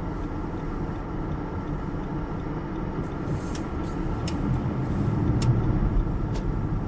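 Steady low rumble of a car's engine and tyres heard from inside the cabin, with a few short, sharp ticks about halfway through.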